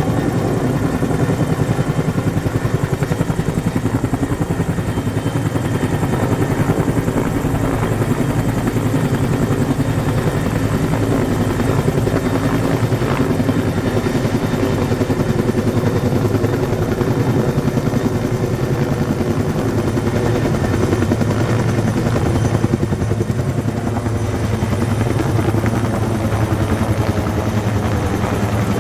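Firefighting helicopter with a bucket slung beneath it, hovering over a pond to refill the bucket; its rotor gives a steady, rapid, loud beat.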